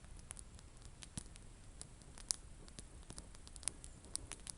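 Small wood campfire crackling faintly, with sparse irregular pops.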